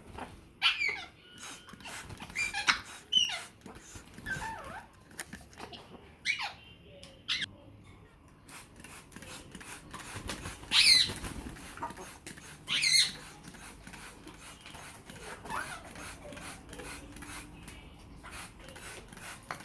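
African grey parrots calling: a string of short squawks and whistles that sweep in pitch, with two loud high calls about halfway through, among many scattered short clicks.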